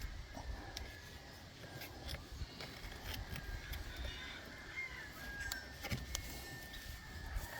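Faint outdoor background: a low rumble with a few light knocks and clicks scattered through it, and faint bird calls about the middle.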